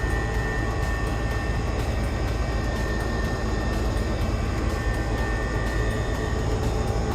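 A woodworking power tool running steadily: a constant mechanical drone with a faint high tone held over it.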